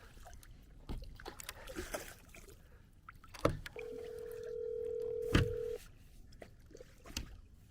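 Telephone ringback tone through a phone's speaker: one steady two-second ring about four seconds in, with a couple of sharp knocks around it.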